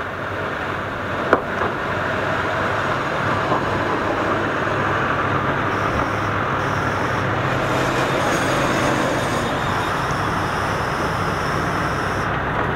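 Trans-Kyushu Limited Express diesel train pulling in alongside the platform and slowing to a stop, its engines droning steadily under the rumble of the cars. A faint high-pitched squeal comes and goes through the second half, and there is a single sharp click about a second in.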